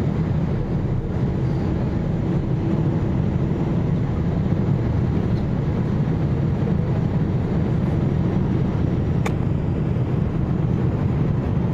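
Steady low rumble of a Boeing 787 airliner's engines and airflow, with one short click about nine seconds in.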